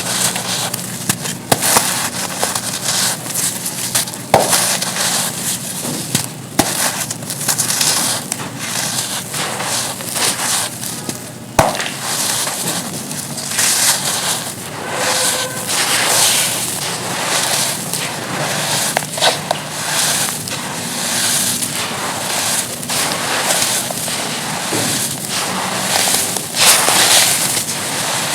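Pieces of charcoal being crumbled and crushed, a dense run of irregular crackling and crunching.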